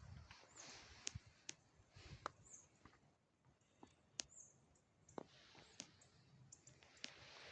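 Faint, irregular sharp clicks, a dozen or so spread unevenly, with a few very brief high chirps among them.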